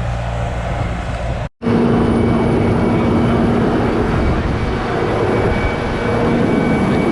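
Heavy equipment engine running steadily, with a low hum. It cuts out for an instant about a second and a half in, then comes back louder.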